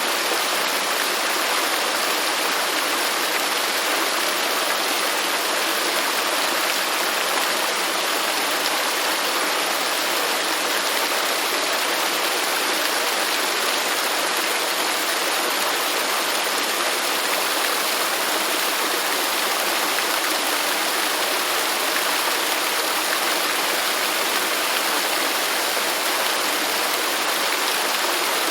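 Waterfall: water falling and rushing in a steady, unbroken hiss, strongest in the mid and high range with little low rumble.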